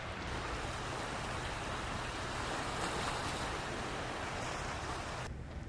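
Sea waves washing on a beach: a steady rush of surf that swells about three seconds in and cuts off abruptly near the end, leaving a duller rumble.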